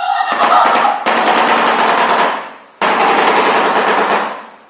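Shoebill clattering its bill, a fast machine-gun-like rattle in two long bouts, each fading out.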